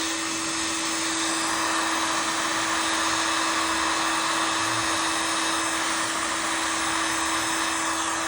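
Old electric heat gun running steadily, its fan blowing a loud, even rush with a steady hum.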